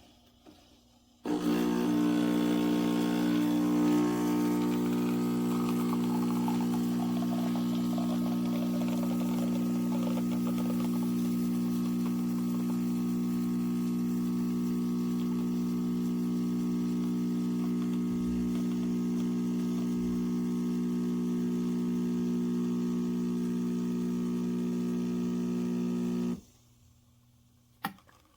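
Espresso machine's pump running with a steady hum. It starts abruptly just over a second in, runs for about 25 seconds, and cuts off abruptly, followed by a single click near the end.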